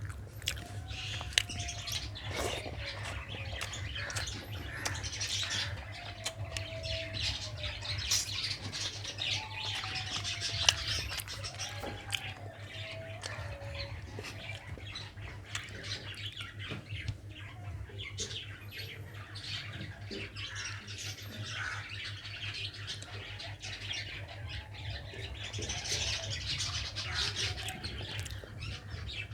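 Chewing and mouth sounds of a person eating rice with chital fish curry: many short wet clicks and smacks over a steady low hum.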